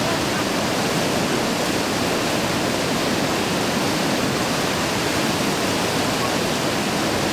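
Steady rush of fast-flowing whitewater in a man-made whitewater course.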